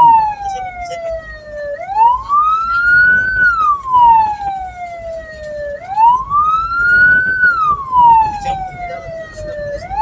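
Vehicle siren wailing in slow cycles, each a quick rise in pitch and a longer fall, repeating about every four seconds, over low road and engine rumble.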